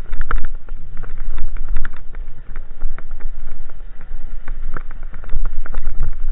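Wind buffeting the microphone during a bicycle ride over snow: a steady low rumble with irregular knocks and rattles from the bike.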